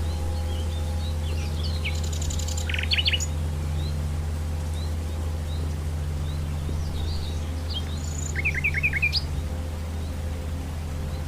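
Common nightingale singing: two short phrases a few seconds apart, each with a rough rattling burst and a quick run of about five repeated notes, with thin scattered chirps between them, over a steady low hum.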